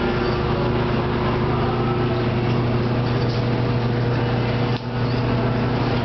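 Water-jug washing machine running: its electric pumps hum steadily over a hiss, with a brief drop in level about five seconds in.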